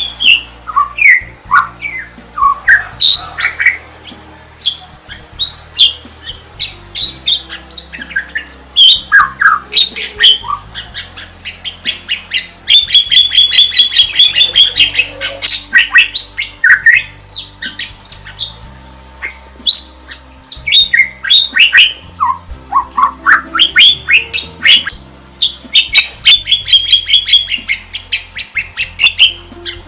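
Bali myna (Bali starling) singing: loud whistled notes sweeping up and down, mixed with harsh squawks, with rapid chattering trills about 13 seconds in and again near the end.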